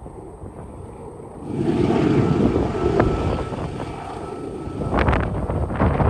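Union Pacific freight train's rear distributed-power diesel locomotives working hard, pushing the train up a steep grade, with wind buffeting the microphone. The rumble swells about a second and a half in and holds loud.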